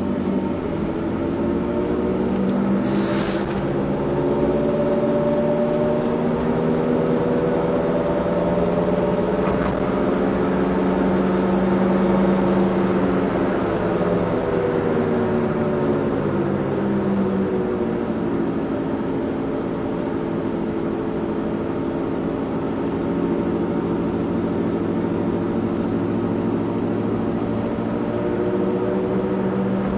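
Car engine accelerating, a steady drone that slowly rises in pitch, drops back down after about fifteen seconds, then starts to rise again near the end. A short hiss about three seconds in.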